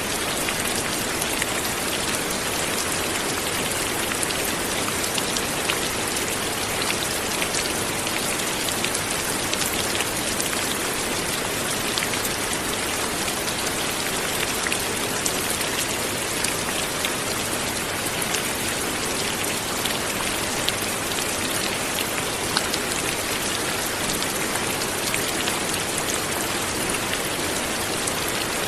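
Steady light rain falling, an even hiss sprinkled with the small ticks of individual drops hitting a surface.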